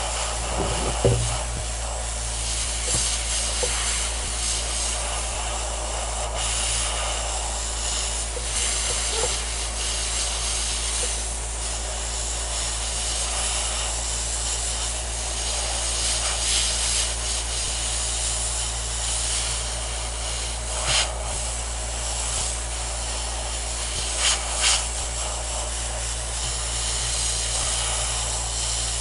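Hot-air rework station blowing a steady hiss of air, drying off the alcohol used to clean the circuit board, over a low steady hum. A few short knocks come near the end.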